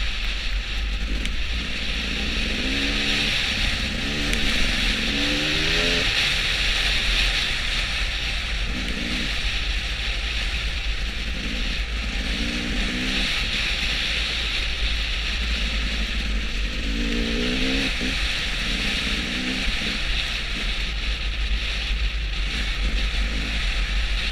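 A vehicle engine running on the road under a steady rush of wind noise, its pitch rising in short runs several times as it accelerates.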